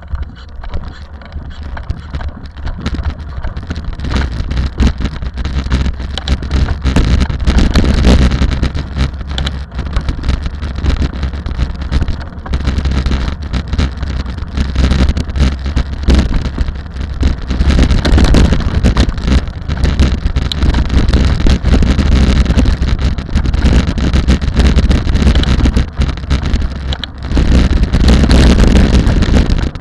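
Rally vehicle driving at speed: engine and road noise with wind buffeting the microphone, swelling and easing in loudness several times.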